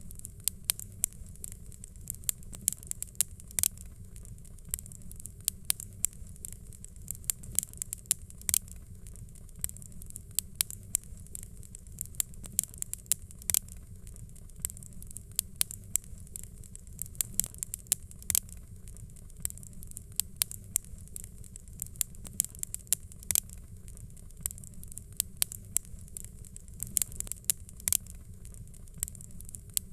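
Wood fire crackling: irregular sharp pops and snaps over a steady low rumble and soft hiss.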